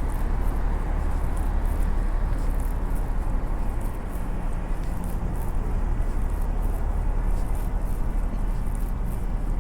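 Steady low outdoor rumble of a winter city walk, with faint, irregular high ticks scattered through it.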